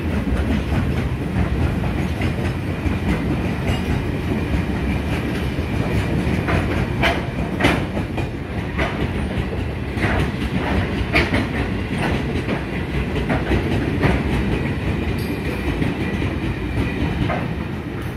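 Freight train of hopper wagons rolling past: a steady rumble of wheels on rail with sharp clicks as the wheels pass over rail joints, thickest in the middle, starting to fade near the end as the train pulls away.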